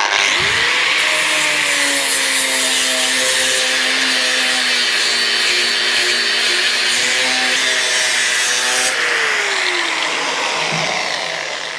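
Grinder spinning up and grinding into the brazed seam of a steel motorcycle fuel tank, a steady motor whine under a harsh grinding hiss. The motor is switched off about nine seconds in, and its whine falls as it winds down.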